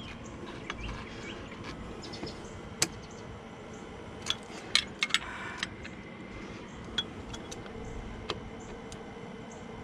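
Sharp metallic clicks and clinks of channel-lock pliers working a hose clamp onto an upper radiator hose. There are about eight separate clicks, the loudest bunched around the middle, over a steady low hum.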